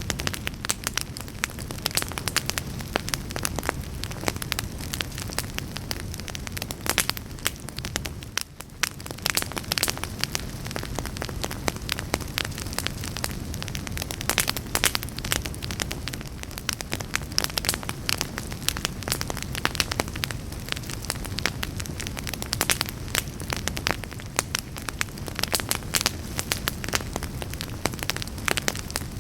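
Fireplace fire crackling, with dense irregular pops and snaps over a steady low rush of flame, and a brief lull about eight seconds in.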